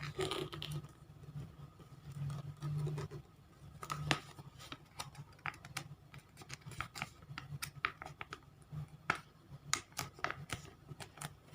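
Square origami paper being folded and creased by hand: a string of irregular crisp clicks and rustles of the paper.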